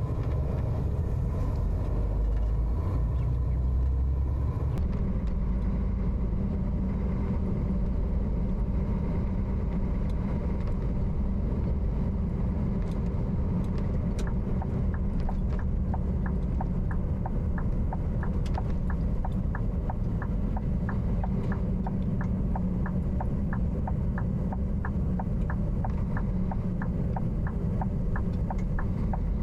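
Truck running on the road: a steady low rumble of engine and road noise, changing in character about five seconds in. From about halfway, a regular light ticking joins it at roughly one and a half ticks a second.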